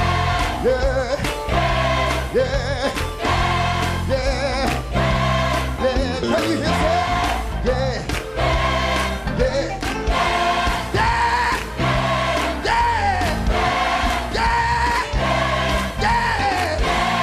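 Gospel music: voices singing over a band with a steady bass line and drums.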